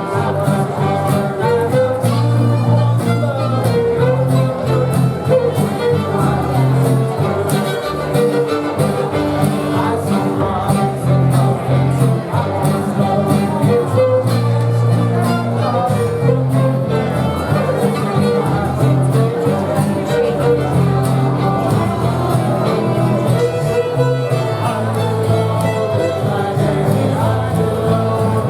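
Live instrumental folk music led by a fiddle, with a steady bass and fast, bouncing notes in a bluegrass-like style.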